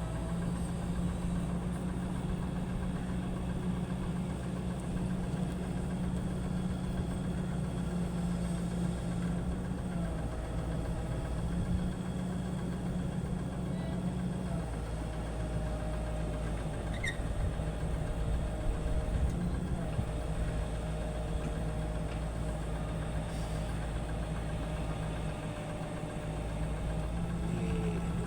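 Steady low mechanical hum, like an engine idling, with one brief high chirp about 17 seconds in.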